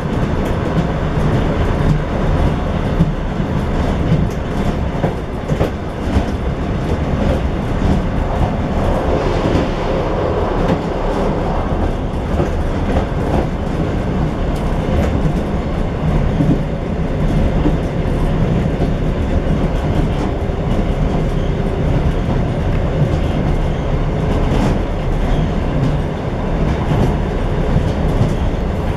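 Train running along the track, heard from inside its rear car: a steady rumble of the wheels on the rails with irregular wheel clicks.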